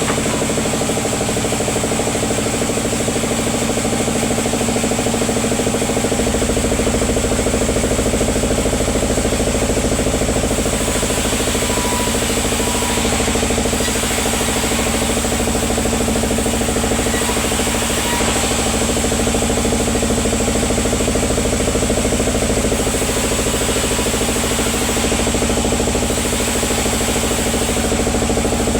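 Sawmill machinery running steadily, a continuous engine-driven drone with a low rumble that grows fuller about six seconds in.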